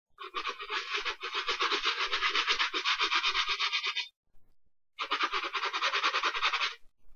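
Cleaning brush scrubbing a sneaker in rapid back-and-forth strokes: two bouts, the first about four seconds long, then a pause of about a second, then a shorter one.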